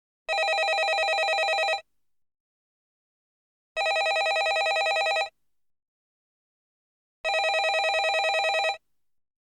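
Landline telephone bell ringing: three rings of about a second and a half each, with about two seconds of silence between them, each ring a fast, even trill.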